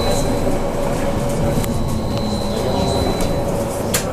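Interior running noise of a BKM 43300D trolleybus under way: a steady low rumble with a faint high whine that comes and goes. There is one sharp click just before the end.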